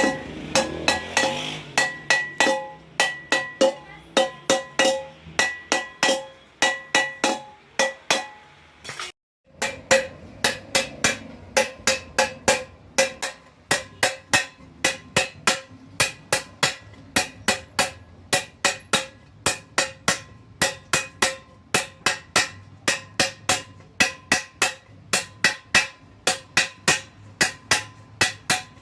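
Hammer blows on a copper vessel in a rapid, steady run, each strike leaving a short metallic ring at the same pitches. There is a brief break about nine seconds in.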